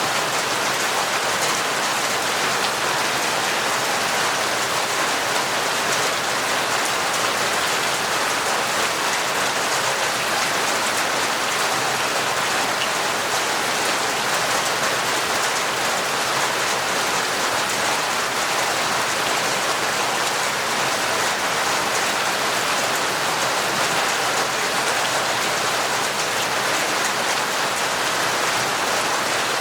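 Torrential rain falling steadily: a dense, even hiss of rain with no breaks or changes.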